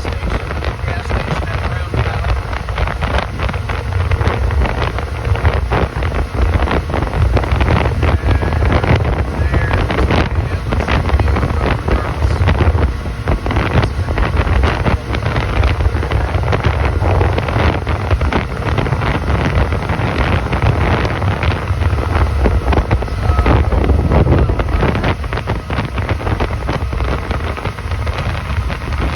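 Motorboat running on plane: the engine drone and hull rushing through the water, with heavy wind buffeting the microphone.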